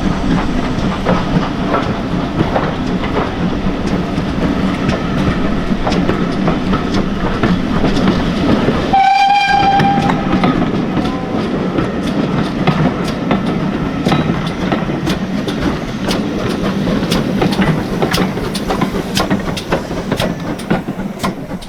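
Steam-hauled train running past, its wheels clicking steadily over the rail joints with a continuous rumble. About nine seconds in, a short whistle blast sounds for about a second.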